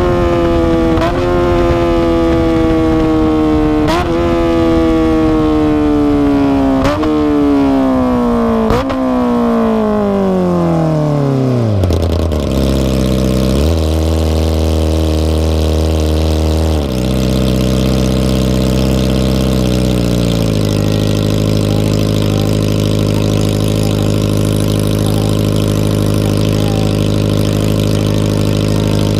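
Kawasaki ZX-25R's inline-four engine through an Akrapovic exhaust, its pitch falling as the bike slows, with a short blip at each of four downshifts. Its revs drop to a steady idle about halfway through.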